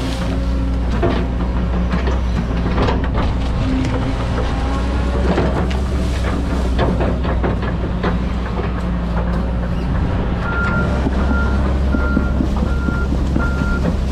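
John Deere 130G excavator's diesel engine running steadily under load, with repeated knocks and clanks as it works. From about ten seconds in, a backup alarm beeps steadily, a little more than once a second.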